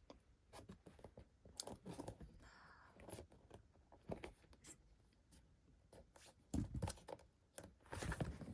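Faint rustling and scattered soft clicks of a paper picture book being handled, with a couple of slightly louder soft thumps near the end as a page is turned.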